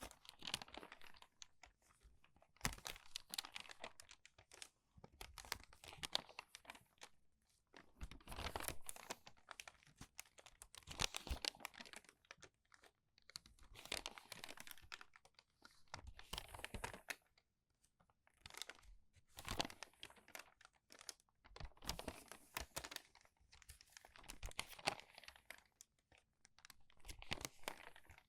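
Crumpled, crinkled paper pages being turned by hand, one crinkly rustle about every two to three seconds.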